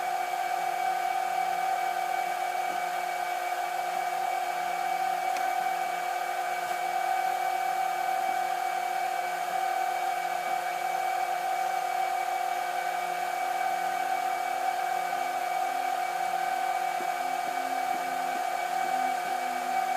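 Steady whirring of a small electric motor, holding one constant pitched hum without change.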